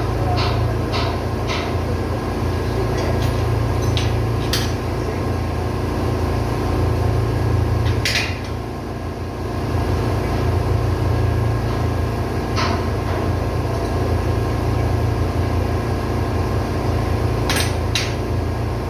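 Ship's diesel engine running with a steady low hum, with sharp metallic clinks and knocks scattered through, about eight of them.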